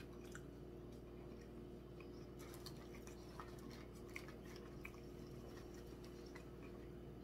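Faint chewing of cheeseburger and fried chicken with closed mouths: soft mouth clicks and smacks scattered over a steady low hum.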